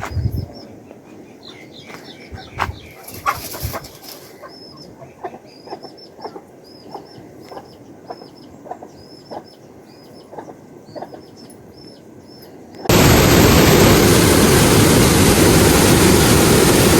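Chickens clucking with many short high chirps and scattered knocks. About thirteen seconds in, a loud, steady rushing noise begins abruptly and drowns everything else out.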